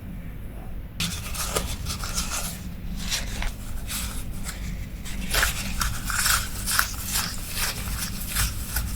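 Irregular scratchy rubbing and scraping of the drag compartment of a Daiwa 1000X spinning reel spool being cleaned, starting about a second in.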